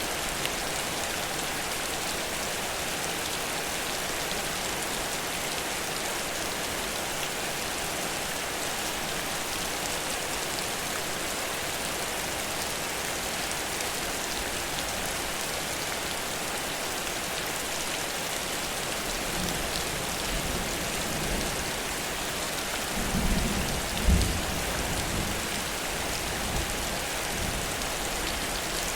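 Heavy rain pouring steadily. About twenty seconds in, a low rumble of thunder builds and peaks a few seconds later before fading.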